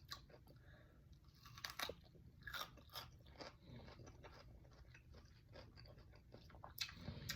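Faint chewing of a cucumber boat filled with rice and smoked salmon, the raw cucumber giving scattered crisp crunches, the most distinct a little under two seconds in, around two and a half seconds in and near the end.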